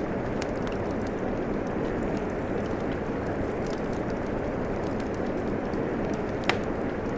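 Steady rain mixed with a crackling wood fire: an even hiss of rainfall with scattered small crackles and one sharp pop near the end.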